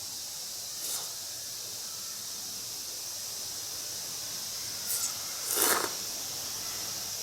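A steady, high-pitched chorus of night insects, with three brief noises: one about a second in and two close together past the middle, the second of these the loudest.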